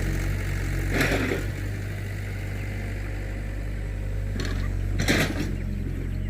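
An engine running steadily with a low hum, with short noisy rustles or scrapes about a second in and again near the end.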